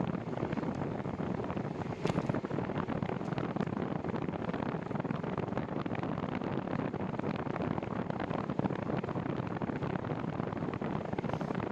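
Wind rushing over the microphone of a moving bicycle rider, a steady noise with a brief louder gust or knock about two seconds in.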